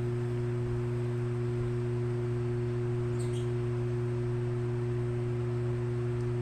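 A steady low drone of a few held tones that does not change at all.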